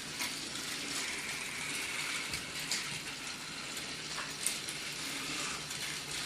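Several battery-powered Trackmaster toy engines running together on plastic track: a steady whirring of small motors and wheels, with a few faint clicks.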